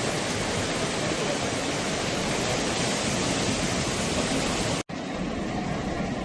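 Fast-flowing flash-flood water rushing steadily. It breaks off for an instant near the end and then continues with less hiss.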